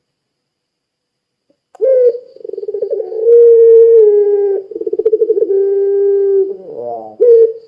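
Puter pelung turtle dove giving one long, drawn-out coo that starts about two seconds in and is held for about five seconds, a steady tone with two trembling, rippling stretches, ending in a falling glide; a new coo begins right at the end.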